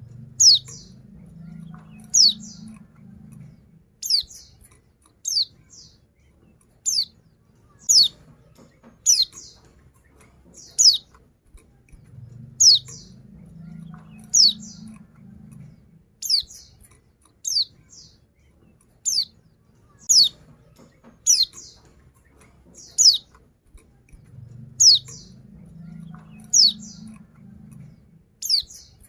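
Female white-eye (pleci) giving short, sharp call notes that sweep downward, one about every second and a half, repeated steadily. A faint low hum comes and goes in the background.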